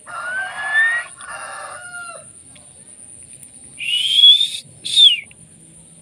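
Two bird calls. First a long two-part call of about two seconds that rises in pitch and breaks once near the middle. About four seconds in comes a loud rising whistle followed by a short falling one. A steady high whine runs underneath.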